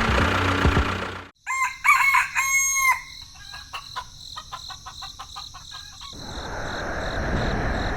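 A rooster crowing, after a noisy mechanical sound cuts off abruptly about a second in. A run of short clicking calls follows, and near the end a rushing noise swells up.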